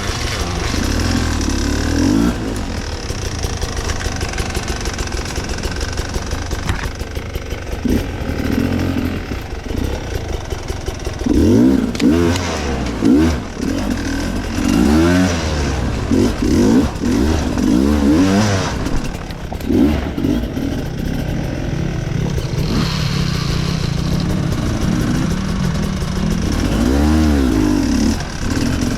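Enduro motorcycle engine revving up and down in repeated short bursts as it is ridden over rough ground. The revs are busiest in the middle stretch, settle to a steadier lower note for a few seconds, then rise again briefly near the end.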